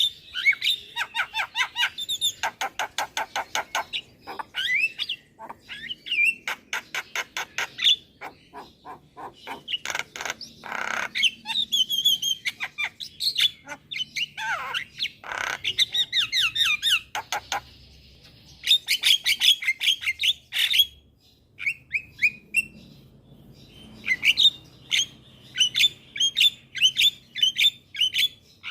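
Javan myna (jalak kebo) in full song: fast runs of harsh squawks, clicks and short whistled notes, in bursts broken by brief pauses.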